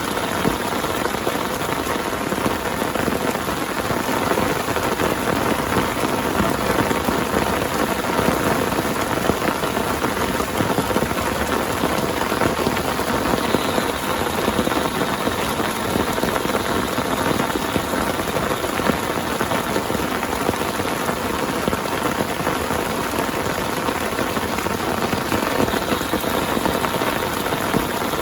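Heavy rain falling steadily in a dense, even patter of drops, with no let-up.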